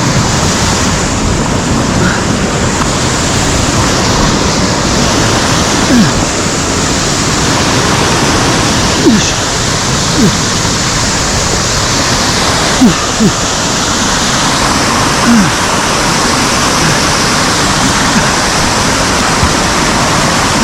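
Mountain stream rushing over rocks close by, a loud, steady roar of water. Several brief low thumps come through it at uneven intervals.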